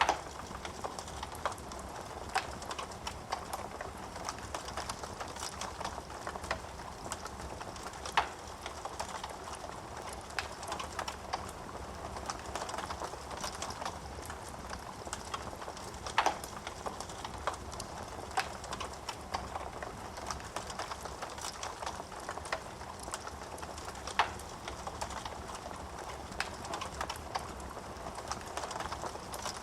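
Wood fire in a fireplace crackling: a steady hiss of burning with constant small crackles and an irregular scatter of sharper pops, a few of them louder, about every eight seconds.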